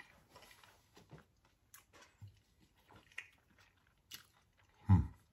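A person chewing a mouthful of cooked vegetables: faint, scattered crunching clicks, with a short low hum about five seconds in.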